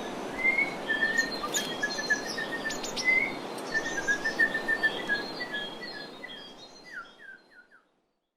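Several birds chirping and calling in short, quick notes over a steady background hiss, with a few quick falling chirps near the end, the whole fading out to silence just under eight seconds in.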